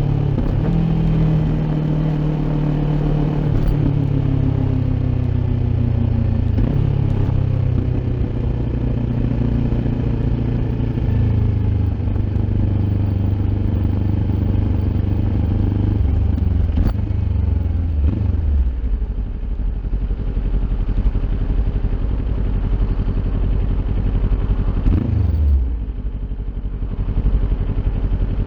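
Kawasaki Ninja 400's parallel-twin engine running through an Akrapovic aftermarket exhaust while ridden, its note rising and falling with throttle and gear changes. It drops away about 18 s in, gives a short throttle blip about 25 s in, then runs at a lower, steadier note.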